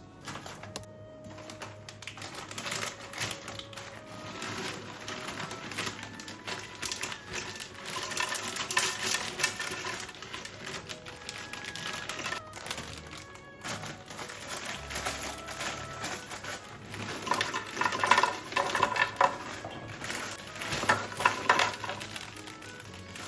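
Rapid, irregular clicking and rattling, heaviest in two bursts near the end, over soft background music.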